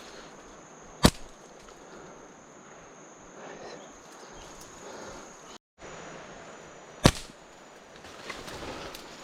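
Two sharp slingshot shots, each a single crack, about six seconds apart, over a steady high insect drone.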